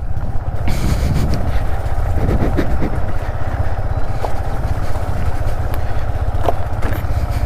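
Yamaha MT-15 motorcycle's single-cylinder engine running steadily while riding, under a dense low rumble of wind and road noise.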